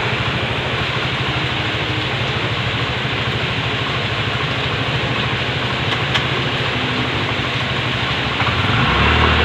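A vehicle engine idling with a steady, low pulsing hum over a constant hiss. Near the end the engine note deepens and grows louder.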